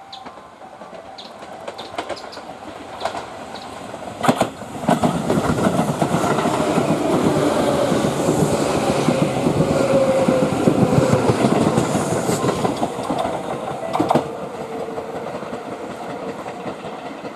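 Tobu electric express train passing close by: a rolling rumble with wheels clicking over rail joints and points. It grows loud about four seconds in, and a faint tone falls slowly under the rumble before it eases near the end.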